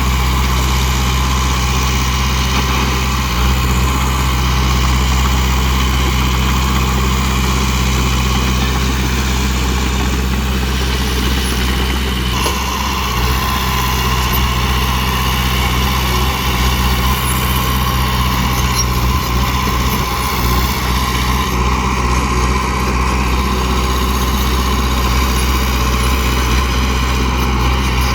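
Heavy dump truck's engine running steadily with a low, even drone.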